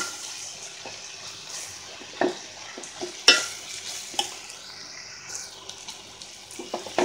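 Chopped amaranth stems frying in oil in a metal pot, a steady sizzle, while a steel spoon stirs them, scraping and knocking against the pot. The sharpest knock comes about three seconds in.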